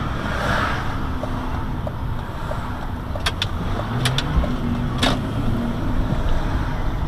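Road and wind noise recorded from a moving vehicle, a steady low rumble with an engine note that rises around the middle. A few sharp clicks come about three to five seconds in.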